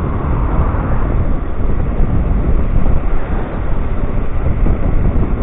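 Steady rushing and buffeting of wind on the microphone while riding an electric scooter, heaviest in the low rumble.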